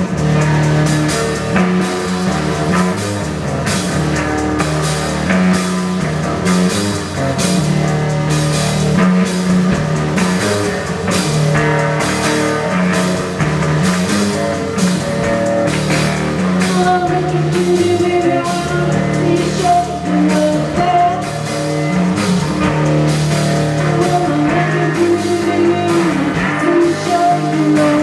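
Rock band playing: a steady drum beat and guitar, with singing.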